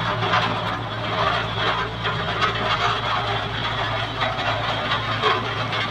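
Engine of road-construction machinery running steadily at a constant speed, a low even hum with rough noise over it.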